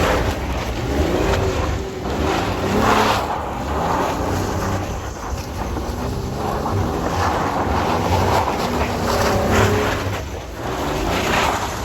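Vehicle engine revving up and down again and again, its pitch rising and falling, as the vehicle spins donuts in the snow.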